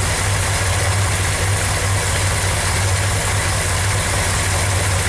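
1970 Chevrolet Corvette's 454 big-block V8 idling steadily, with a deep, even low note and no revving.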